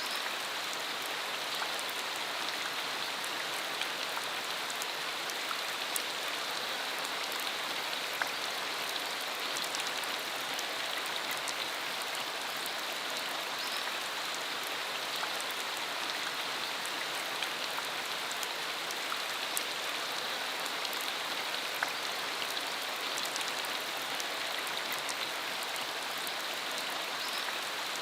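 Steady rain falling, an even hiss with scattered individual drop splashes.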